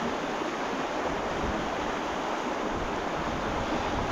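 Steady rush of water from a beck and waterfall in full spate, swollen by heavy rain, with wind buffeting the microphone in uneven low rumbles.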